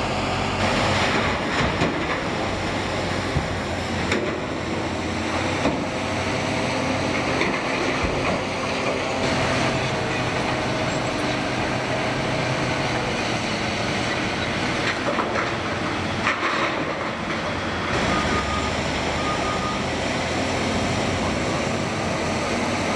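Heavy diesel machinery running steadily, with a few short knocks and clanks.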